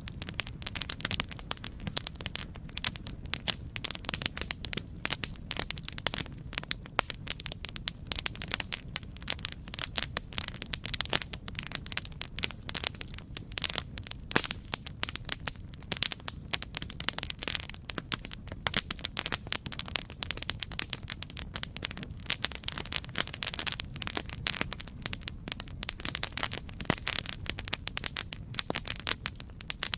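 Campfire burning: wood crackling and popping in a dense, irregular stream of sharp snaps over a steady low rumble of flames.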